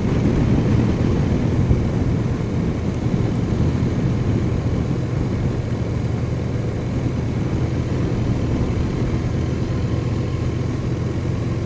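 BMW R1200 boxer-twin motorcycle engine running steadily under way, a constant low drone with road and wind noise over it.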